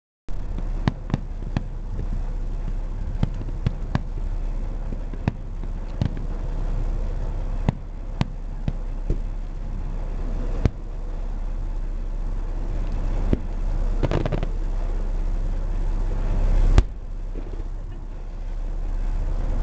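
Fireworks display: aerial shells going off as a string of sharp bangs at uneven intervals, the loudest about three seconds before the end, over a steady low rumble.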